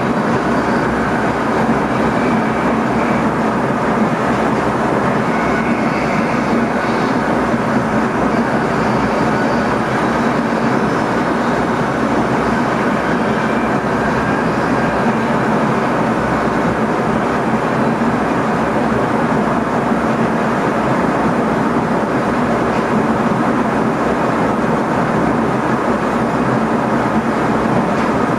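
Steady running noise inside the driver's cab of an NS ICM electric multiple unit travelling along the line: a continuous rumble of wheels on rails with a steady low hum.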